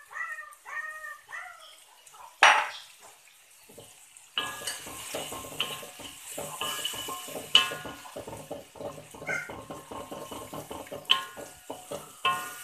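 Curry-powder paste frying in hot oil in a wok: from about four seconds in it sizzles steadily while a wooden spatula stirs and scrapes against the pan. There is a sharp metal clank about two and a half seconds in, and a run of quick repeated bird calls in the background at the start.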